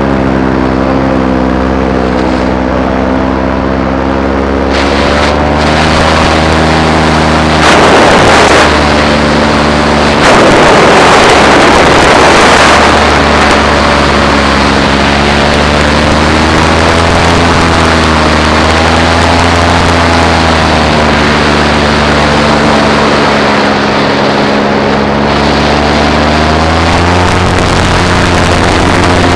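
Paramotor engine and propeller running steadily under power, the pitch wavering slightly, with wind rushing over the microphone in two gusts about a quarter and a third of the way through.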